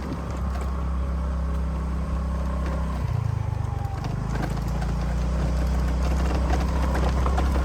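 Small 115 cc motorbike engine running steadily, its note shifting about three seconds in.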